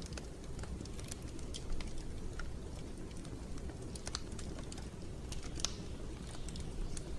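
Wood fire crackling in a fireplace: irregular sharp snaps and pops over a steady low rumble of the burning.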